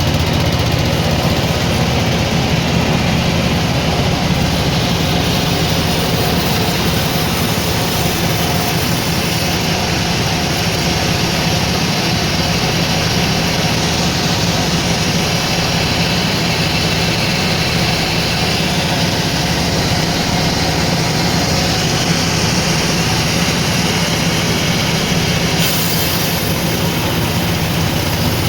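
Sawmill machinery running steadily, a loud and unchanging mechanical noise.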